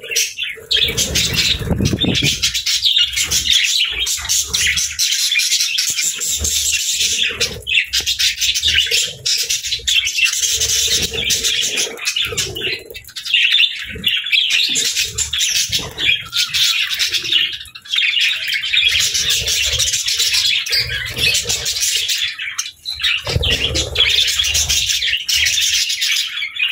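Flock of budgerigars chattering: dense, continuous high chirping and warbling, with a few low thuds about two seconds in and again near the end.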